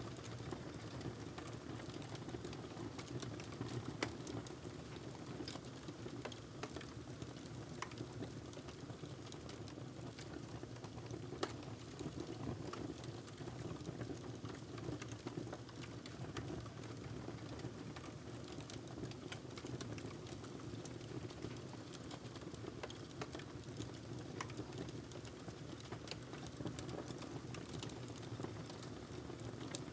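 Fire burning in a fireplace: a steady low rumble of flames with constant irregular crackling, and a few sharper pops standing out.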